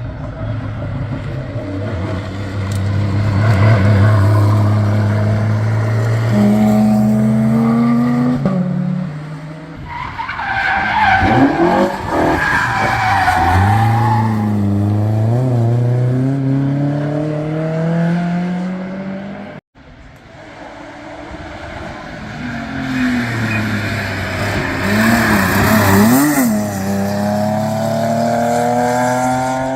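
Historic racing car engines accelerating hard on a hillclimb, the engine pitch climbing between gear changes and dropping sharply about ten seconds in, with tyre squeal around the middle. An abrupt cut about two-thirds of the way through leads to another car accelerating with a steadily rising engine note.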